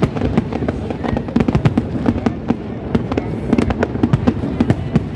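Aerial fireworks display: shells bursting in rapid, overlapping bangs and crackles, many a second without a pause.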